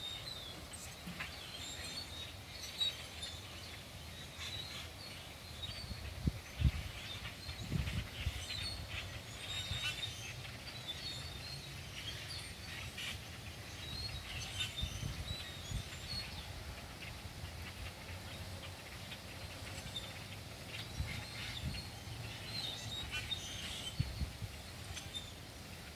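A large flock of small birds chirping, many short calls overlapping in a constant scatter. Now and then a few brief low thumps, the loudest about six to eight seconds in.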